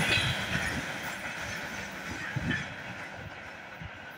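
The tail of a freight train of tank wagons rolling past and away, its wheels clacking over the rail joints. The rumble fades steadily as the last wagon recedes.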